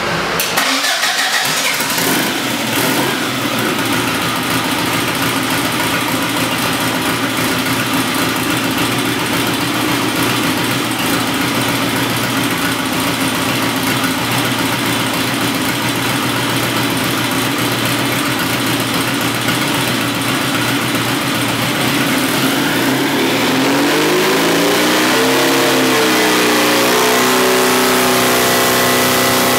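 Turbocharged 2276cc air-cooled Volkswagen flat-four running on its own just after start-up, holding a steady idle. For the last several seconds the revs rise and fall a few times.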